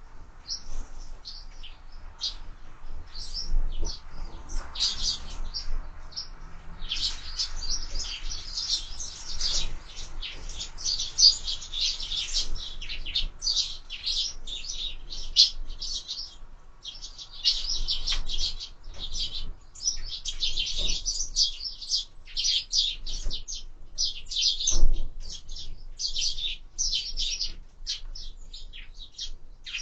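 Sparrows chirping busily, many short overlapping chirps almost without pause. A single knock sounds about five seconds before the end.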